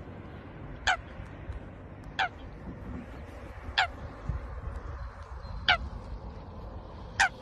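A waterbird's short, high call falling in pitch, repeated five times about every one and a half seconds.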